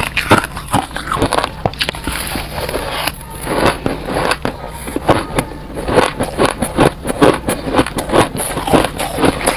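Close-up crunching of soft, chunky freezer-frost ice being bitten and chewed, a rapid, uneven run of crisp crunches several times a second.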